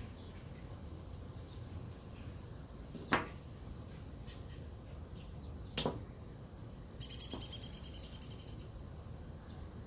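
Two sharp clicks a few seconds apart, then a high warbling chirp lasting about a second and a half, over a low steady hum.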